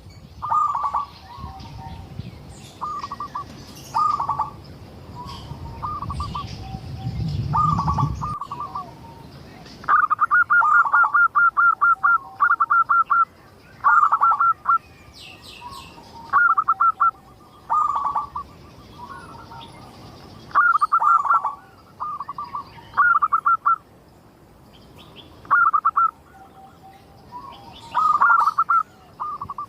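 Zebra dove cooing: short phrases of rapid, stuttering coos repeated one after another, the gacor song used to lure other zebra doves into calling. Weaker high chirps sound behind them, and a low rumble runs under the first eight seconds.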